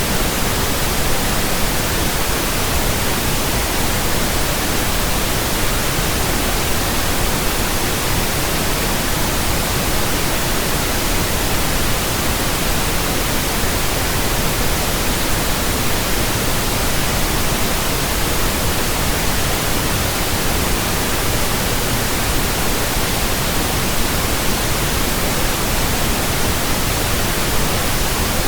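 Steady, unbroken pink noise from a signal generator: an even hiss across all pitches with no changes, played as a burn-in track for new speakers and earphones.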